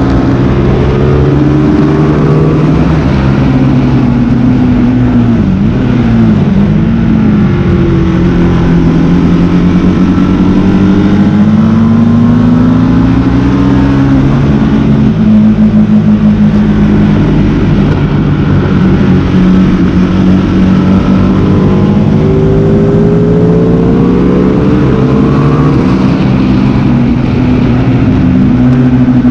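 Superbike engine being ridden hard on a race track, pitch climbing as it accelerates and falling back on gear changes and braking several times over, with a steady rush of noise underneath.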